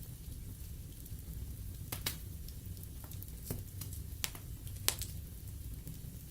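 Logs burning in a fireplace: a steady low rumble of flame with scattered sharp crackles and pops, the strongest about two and five seconds in.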